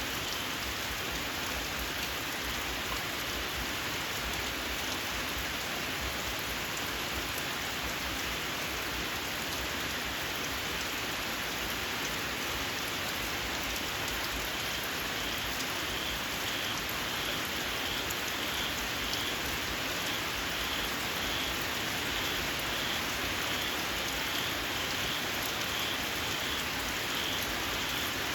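Steady rain falling. From about halfway through, a frog calls in short, shrill, evenly spaced notes, about two a second.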